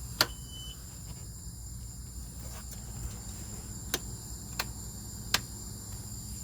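Four sharp clicks of the boat's helm switches being flipped, one just after the start and three in the second half, over a steady high-pitched hum in the background.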